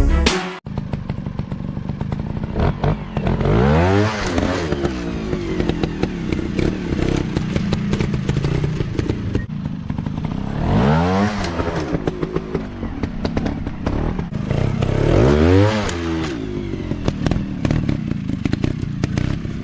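Small dirt-bike engine running, revved up and back down three times, with scattered knocks and clatter.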